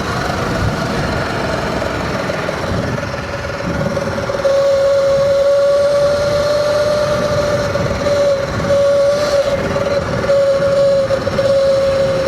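Sur-Ron electric dirt bike riding at a steady speed: a steady high whine from the electric motor and drivetrain over rumbling wind noise on the microphone. It gets louder about four seconds in and dips slightly in pitch now and then.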